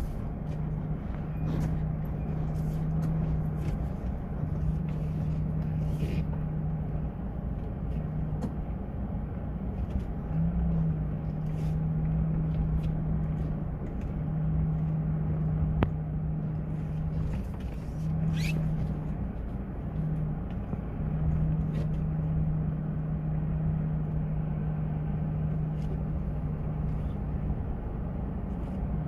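Vehicle engine with a steady low drone that dips out briefly every few seconds, heard from inside the moving vehicle, with a low rumble beneath and scattered rattles and knocks.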